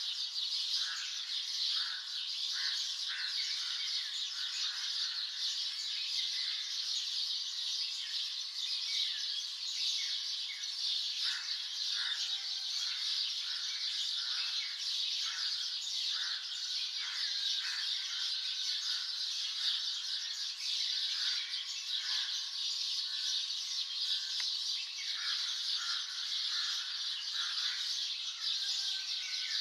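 Morning chorus of many songbirds chirping and singing, short repeated notes overlapping one another over a dense, steady high-pitched background chorus.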